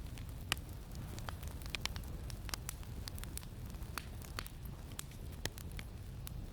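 Campfire crackling, with irregular sharp pops from the burning wood over a steady low rumble of wind.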